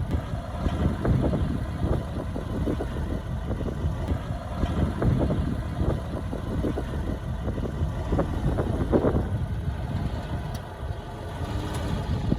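Heavy diesel earthmoving machine running, with many irregular metallic clanks and knocks over the engine. The engine dips briefly near the end and then rises again.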